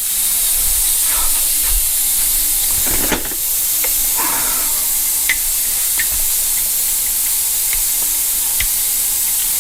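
Steady, loud hiss, with a few faint light clicks scattered through it.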